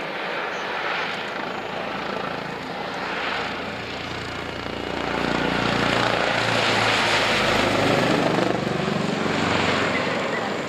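Airbus H145M twin-turbine helicopter flying a display pass, its rotor and turbine noise a steady rush that grows louder about halfway through, peaks, and then eases off.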